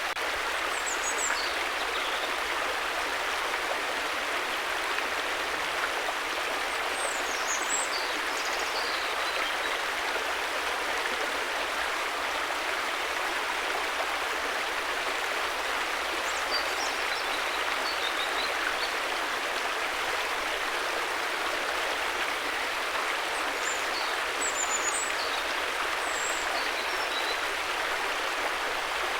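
River water rushing and babbling steadily, an even unbroken flow. A few faint high chirps come and go above it.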